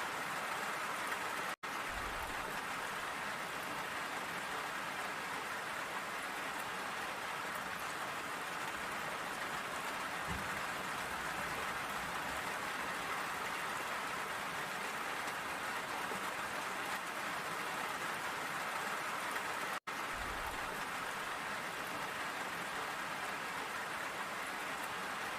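Steady rain falling, an even hiss of drops, broken by two brief dropouts, near the start and about three-quarters of the way through.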